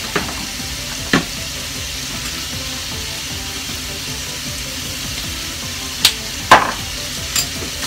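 Bacon, meat and mushrooms sizzling steadily as they fry in a frying pan, with a few sharp knocks, the loudest about six and a half seconds in.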